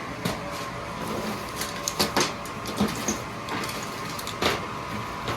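Steady hum from a running gas boiler, with a few sharp clicks and knocks of tools or parts being handled around it.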